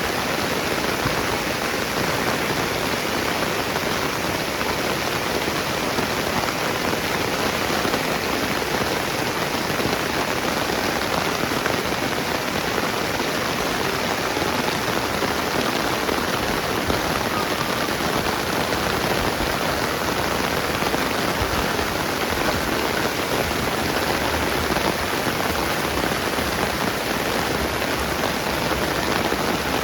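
Steady rain falling and pattering on surfaces: an even, unbroken hiss.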